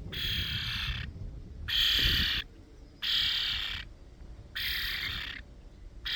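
A bird perched close by giving harsh, raspy calls, each about a second long, five in a row at an even pace. These are the persistent calls of a young bird that is treating the person as its parent.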